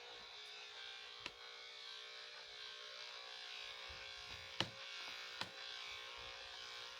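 Electric dog grooming clippers running with a steady hum, with a few sharp clicks.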